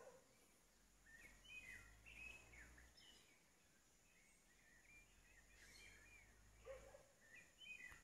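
Faint woodland birdsong: several birds giving short chirps and quick up-and-down warbled notes, with a lower call near the end.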